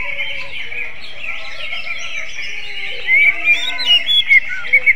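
Green leafbird (cucak ijo) singing a continuous run of chattering song, breaking into a string of loud, sharp whistled notes about three seconds in. The song has a kacer-like (oriental magpie-robin) style.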